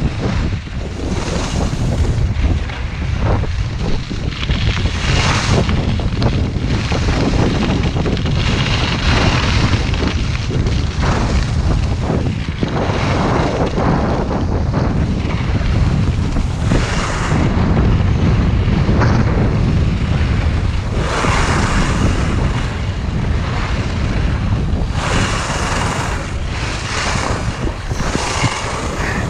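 Wind buffeting the microphone in a heavy, steady rumble. Over it come repeated hissing swishes, one every second or two, fitting skis carving turns down a slope of spring snow.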